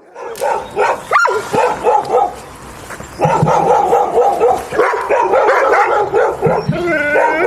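Dogs barking in quick, repeated yapping barks, with a short lull partway through and a wavering whine near the end.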